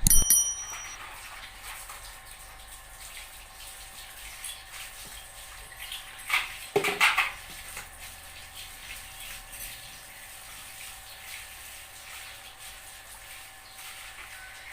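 Water splashing during a dog's bath, with a cluster of short splashes about six to seven seconds in. A sharp knock with a brief ringing opens the stretch.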